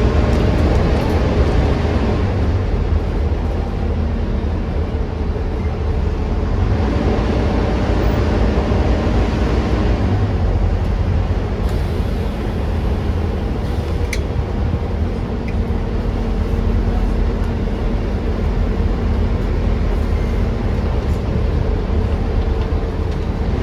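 Volvo B9TL double-decker bus's six-cylinder diesel engine running under way, heard from on board over steady road rumble, its pitch rising as it accelerates near the start and again about seven seconds in.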